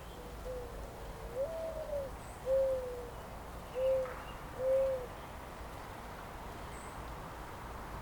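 A bird gives a series of low, hooting calls: one longer note that rises and falls about a second and a half in, then three short arched hoots about a second apart, over a steady soft background hiss.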